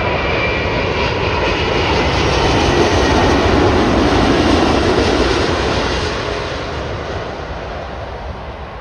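Jet airliner passing close by, its engine noise swelling to a peak about halfway through and then fading away, with a faint high whine near the start.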